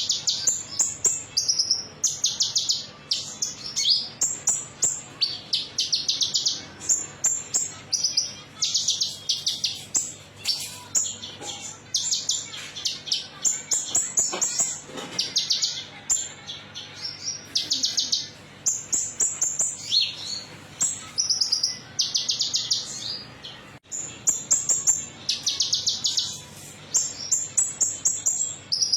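Olive-backed sunbird (kolibri ninja) singing: rapid, high-pitched trilled phrases, each under a second long, repeated one after another with short gaps.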